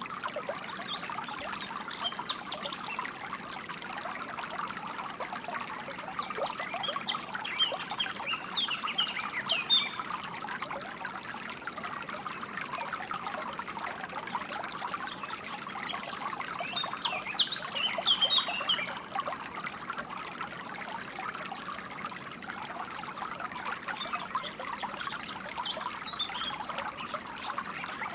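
Water flowing and trickling steadily, with small birds chirping in bursts every several seconds.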